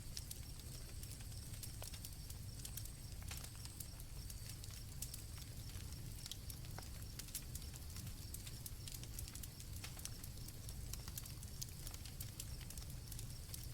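Campfire crackling, with many irregular small pops over a steady low rumble, and crickets trilling in steady high tones.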